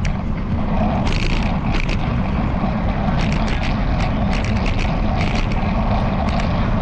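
Rattle of a bicycle-mounted camera mount: quick, irregular clicks over a steady low rumble of wind and tyre noise while riding.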